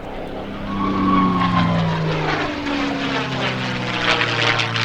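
P-51D Mustang's Rolls-Royce Merlin V12 engine and propeller passing by. It grows louder about a second in, and its pitch drops as it goes past, then runs steady at a lower pitch.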